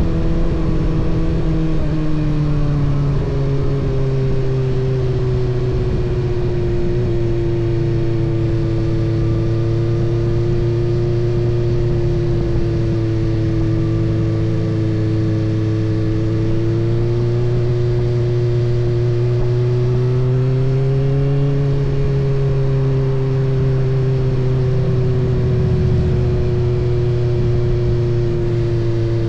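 Kawasaki ZX-6R inline-four engine running at steady revs under way. Its pitch dips about two seconds in, climbs for a few seconds past the middle, then slowly eases back.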